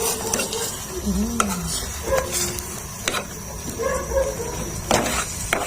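A utensil stirring Yopokki rice cakes in thick, sticky sauce in a pan, with a few sharp clicks of the utensil against the pan; the sauce has thickened and the rice cakes are cooked.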